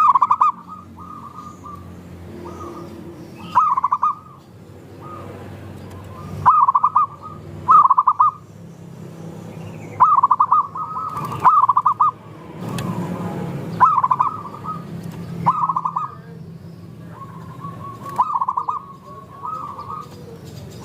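Zebra doves (perkutut) cooing: short phrases of quick, rolling coos repeat every one to two seconds, with several birds calling over one another, over a faint steady low hum.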